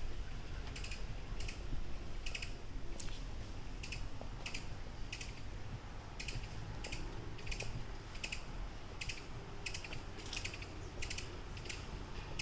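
Footsteps walking at a steady pace, each step a short, crisp click or crunch, about two a second, over a low, steady background rumble.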